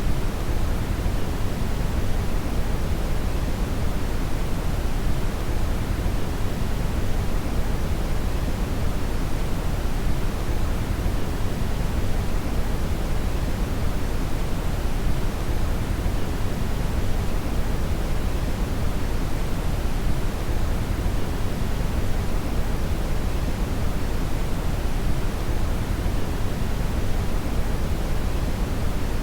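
Steady brown noise: a continuous, even hiss weighted heavily to the bass, with no changes or events.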